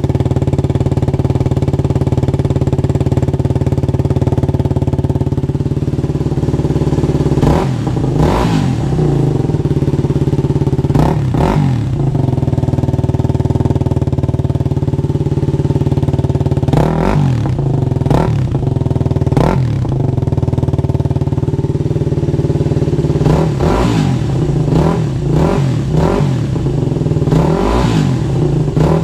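Motorcycle engine running through a newly fitted aftermarket exhaust, idling steadily at first, then blipped several times in short revs that rise and fall, in clusters later on.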